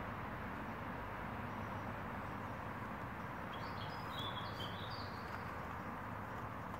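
Steady outdoor background hiss, with a small bird chirping in short high notes for about a second and a half midway through.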